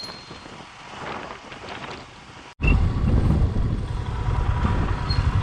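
Quiet background, then an abrupt cut about two and a half seconds in to loud wind rush and low rumble from a Royal Enfield Himalayan motorcycle on the move, with wind buffeting the microphone.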